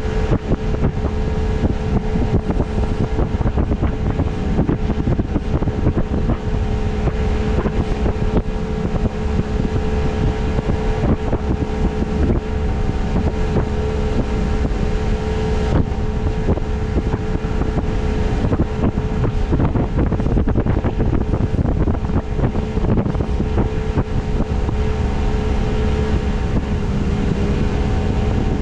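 Boat motor running at a steady speed while under way, with a steady hum, and wind buffeting the microphone.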